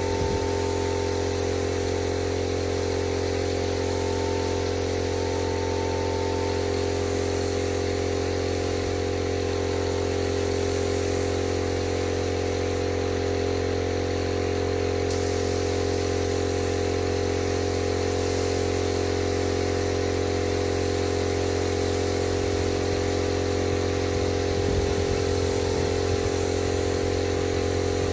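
Motor supplying air to an HVLP paint spray gun, running at a constant speed with a steady hum and hiss.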